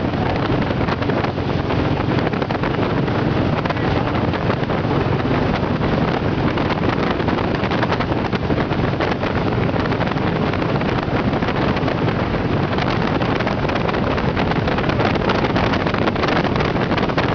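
Motorboat running at speed, with wind rushing steadily over the microphone.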